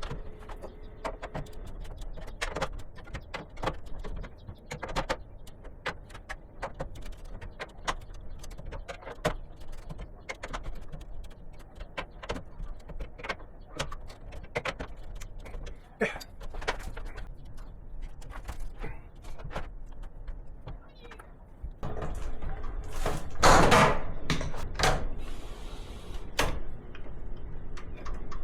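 Scattered small clicks and knocks of hand tools working on the wiring inside a metal breaker panel, with a louder rustling, scraping stretch about three quarters of the way through.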